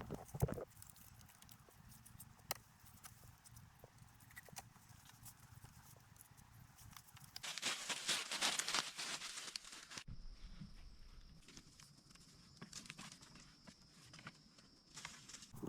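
Scattered sharp knocks and clicks, with a louder stretch of rustling in the middle. A steady high-pitched drone sets in after the rustling.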